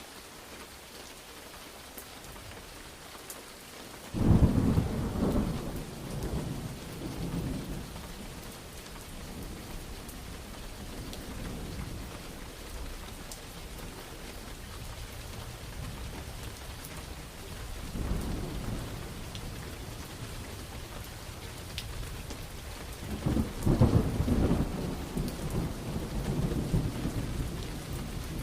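Steady rain with two loud thunderclaps. The first cracks suddenly about four seconds in and rumbles away over a few seconds. The second rolls in near the end.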